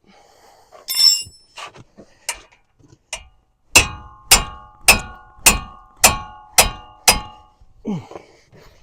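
Seven hammer blows on steel in an even rhythm of about two a second, each ringing, after a single metallic clank about a second in: striking to break loose the tight caliper bracket bolts.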